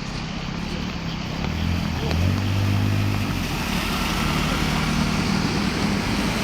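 An engine running, growing louder about a second and a half in, over a steady rushing noise.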